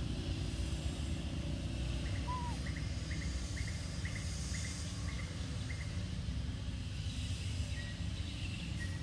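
Outdoor ambience with a steady low rumble, over which a bird gives a run of about eight short, evenly spaced chirps from about two seconds in until about six seconds in.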